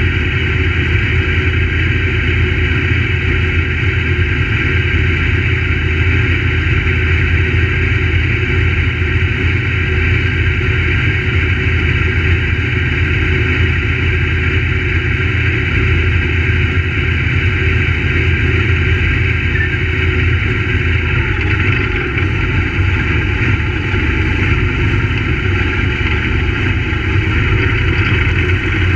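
Crate late model race car V8 engine running steadily and loud, a continuous engine note that holds nearly level without clear revving up or down.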